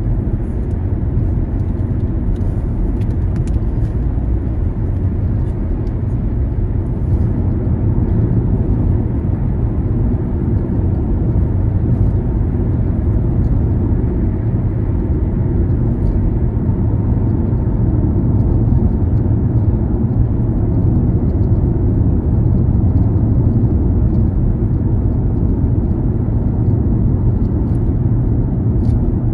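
Car on the move: a steady low rumble of engine and tyre road noise.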